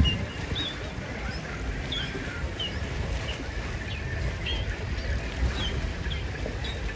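Small birds repeatedly giving short high chirps, about one or two a second, over a steady low rumble.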